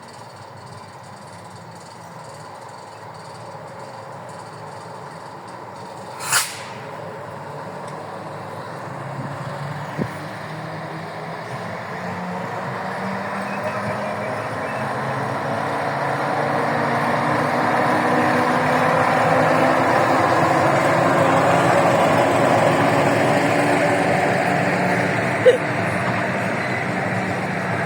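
TU10 narrow-gauge diesel locomotive and its train pulling away, the engine and wheel noise growing steadily louder to a peak about two-thirds of the way through and easing slightly after. A short sharp hiss about six seconds in, and a couple of single sharp clicks.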